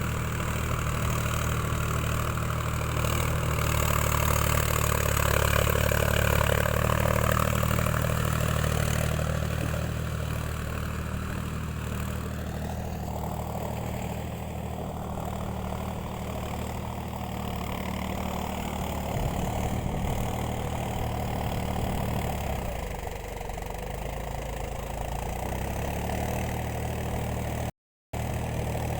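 Tractor diesel engine running hard, as a tractor stuck in mud tries to pull out. It is louder for the first twelve seconds or so, then settles to a lower, steadier run, with a brief break near the end.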